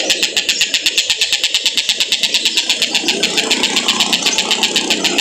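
Collared kingfisher (tengkek buto) calling in a long, fast run of harsh repeated notes, about eight a second, at a steady pace.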